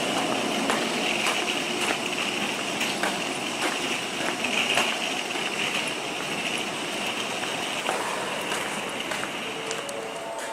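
Train running noise heard inside the carriage: a steady rushing with scattered sharp clicks from the wheels and rails, slowly getting quieter as the train slows toward a station.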